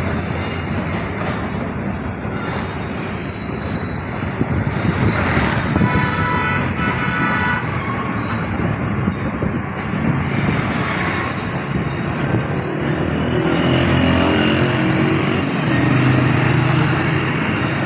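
Passenger train running along the track: a steady, loud rumble of wheels and carriages, with a brief higher-pitched tone about six seconds in.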